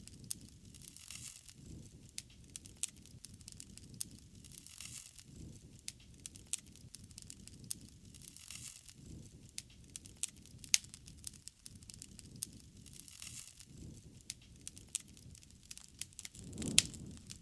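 Wood fire crackling, with irregular sharp pops over a soft low rumble of burning. The loudest pop comes near the end, with a brief swell of the rumble.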